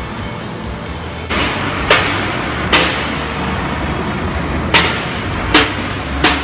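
Five sharp knocks at uneven intervals over a steady low hum.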